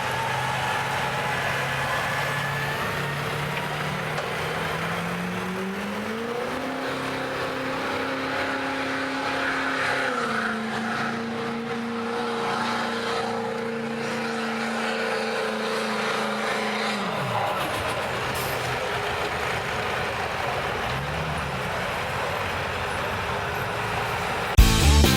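Stock diesel pickup engine revving up a few seconds in and holding high revs for about ten seconds under a pull, then dropping off sharply as the throttle is let off. Music starts just before the end.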